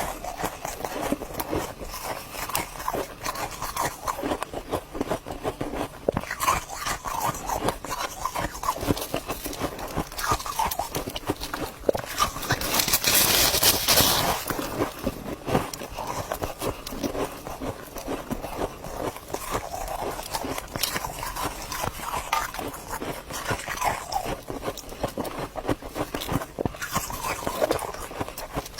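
Ice being bitten and chewed close to the microphone: a dense, irregular crunching and crackling, with a louder, hissier crunch lasting about two seconds near the middle.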